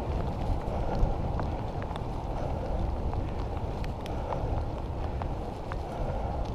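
Wind rushing over the microphone and road noise from a bicycle being ridden on a wet road, with scattered small ticks throughout.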